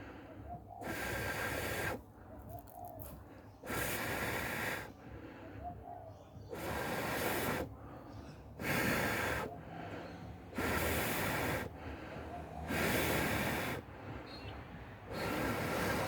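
A person blowing long, steady breaths into a smouldering bundle of unravelled hemp rope with a char cloth ember at its centre, about one breath every two seconds, to blow the ember into flame.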